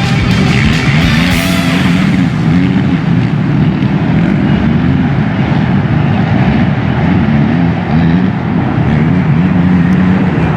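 Rock music mixed with motocross motorcycle engines running.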